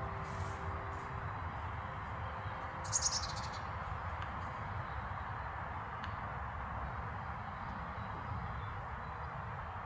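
A bird gives a short burst of chirps about three seconds in, over a steady outdoor hiss with a low rumble.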